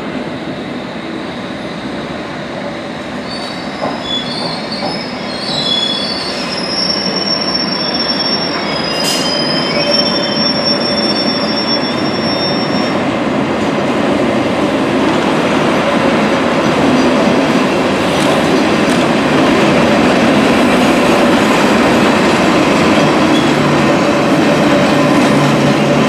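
Train wheels squealing on the rails in high tones for several seconds, then the rumble and rail clatter of a London Underground battery-electric locomotive hauling an engineering train of wagons, growing louder as it draws alongside.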